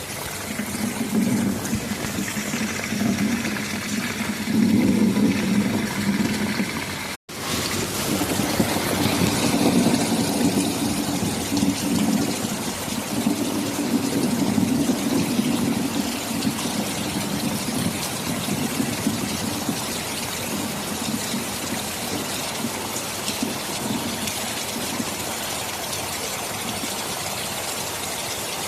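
Heavy rain falling steadily, with a low rolling rumble of thunder underneath that swells through the first half. The sound cuts out for an instant about seven seconds in.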